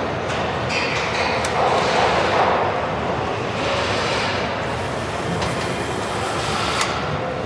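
Steady mechanical din of a truck assembly line, with scattered sharp clicks and clanks.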